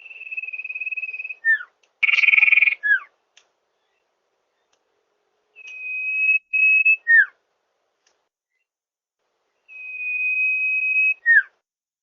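Common iora (cipoh) singing: a long, steady, high whistled note, then a quick falling note. The phrase comes four times. The second one is rougher and louder, and the third is broken briefly in the middle.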